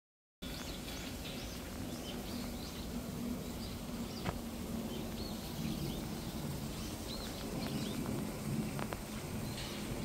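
Outdoor ambience of small birds chirping again and again over a low, steady background hum; it cuts in abruptly about half a second in.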